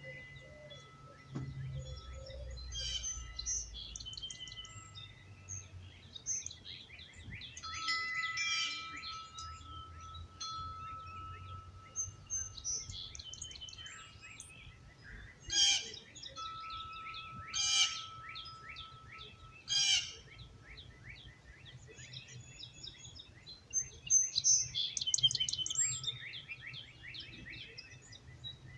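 Several songbirds singing and chirping in a dawn chorus, with three louder calls about two seconds apart midway. Wind chimes ring softly underneath in long, held tones.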